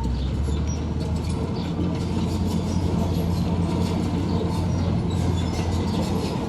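Heavy diesel machinery engine running steadily under load, a constant low drone with light metallic clatter and rattling over it.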